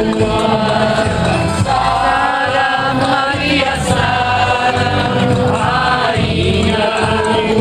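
Music with singing: voices carrying a Gypsy song over steady accompaniment, without clear words.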